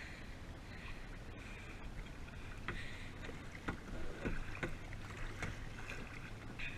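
Kayak paddle strokes: the blade dipping and splashing, with small splashes and drips about once a second, over a steady low rumble.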